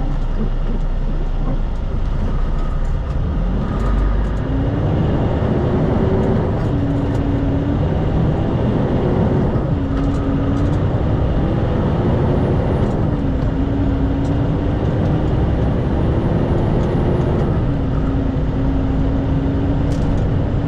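Diesel semi-truck engine heard from inside the cab, pulling away and working up through the gears: the engine pitch climbs, drops at each shift and climbs again, about four times.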